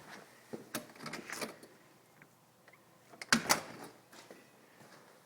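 A few scattered short clicks and knocks: a cluster about a second in and two sharper ones a little past three seconds in.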